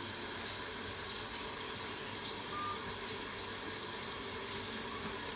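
Chicken liver and gizzards frying under a lid in a kadhai over a high flame, a steady even sizzle.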